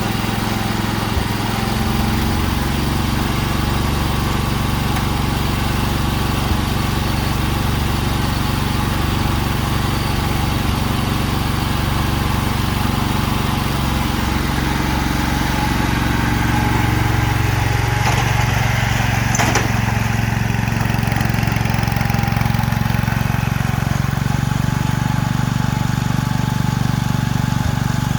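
Wheel Horse 310-8 garden tractor's engine running steadily. Its pitch rises a little past the middle, and a brief sharp click follows shortly after.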